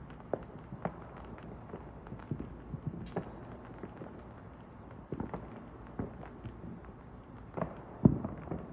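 Fireworks going off at a distance: scattered irregular pops and cracks, with one louder boom near the end.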